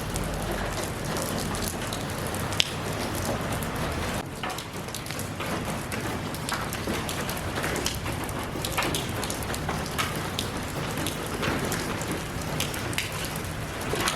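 Steady rain falling, with many separate drops heard striking a surface and one louder drop a little over two seconds in.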